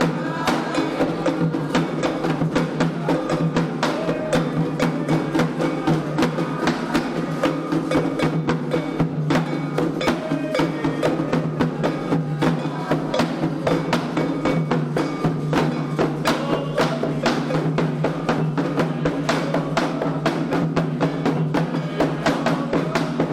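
Candomblé ritual drumming: atabaque hand drums played in a fast, dense, unbroken rhythm with a sharp struck percussion part on top, and voices singing over it.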